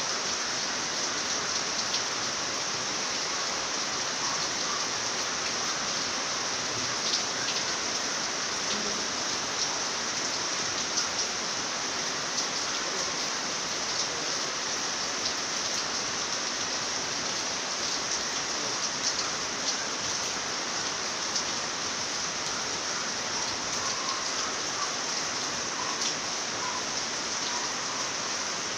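Steady rain falling at night: an even hiss with scattered sharper drop taps.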